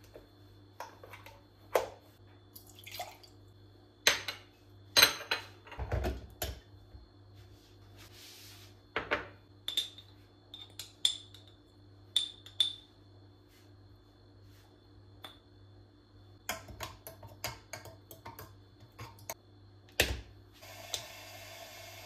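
Kitchen clatter: dishes, bowls and spoons being set down and clinking, a string of separate sharp knocks and short ringing clinks, with a brief rustling hiss about eight seconds in and a steadier rush of noise starting near the end.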